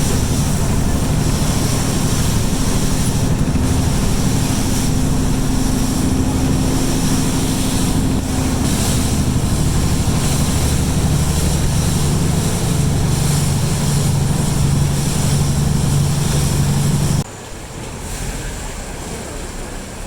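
Canal ferry's diesel engine running loudly under way, its note settling lower about halfway through. It cuts off abruptly near the end, leaving a quieter background.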